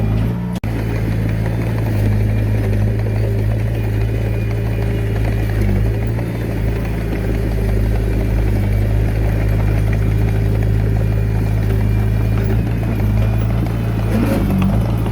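Diesel engine of a Komatsu D21A mini bulldozer running steadily under work, with a brief cut-out about half a second in.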